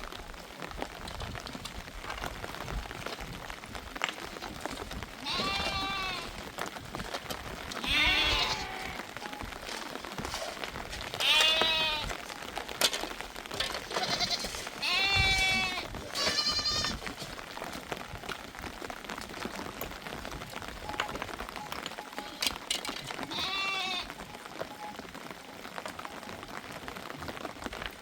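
Sheep and goats bleating: about seven separate quavering calls, a few close together midway, over a steady background hiss.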